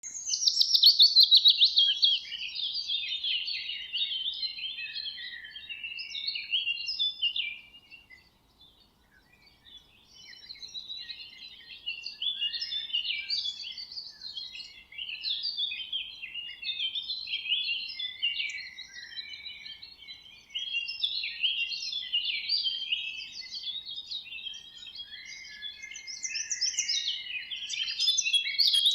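Small bird singing a long, fast run of high chirps and trills, breaking off for about two seconds about a third of the way through, then carrying on.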